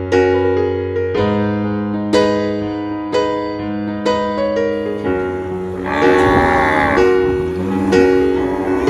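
Piano music, with separate struck notes fading away, and a cow mooing over it once about six seconds in.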